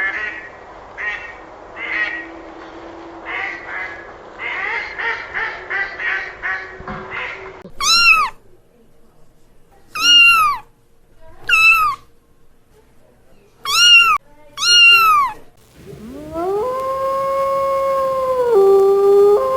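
A rapid run of short animal calls, then five separate cat meows, each about half a second and rising then falling in pitch. Near the end a long, steady howl begins, swelling up in pitch, then holding, with a drop shortly before the end.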